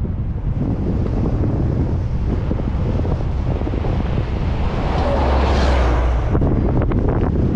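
Wind buffeting the microphone of a moving bike-ride camera: a steady low rumble with hiss, swelling louder and brighter about two-thirds of the way through.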